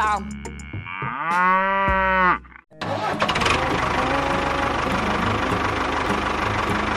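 A drawn-out pitched call lasting about a second, then after a brief break a small motor running steadily with a fine rapid ticking through the rest.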